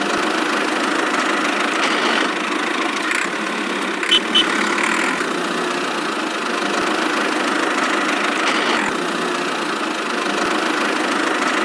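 Small motor of a miniature DIY tractor running steadily, with a couple of light clicks about four seconds in.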